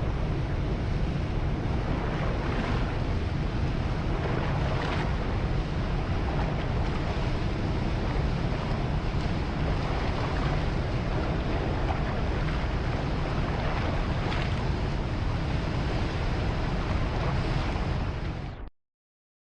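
Steady rush of ocean surf with wind buffeting the microphone, cutting off abruptly near the end.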